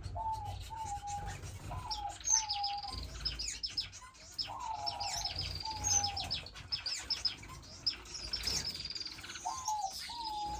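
Captive finches chirping and twittering in quick high notes, over a lower call repeated about every half second.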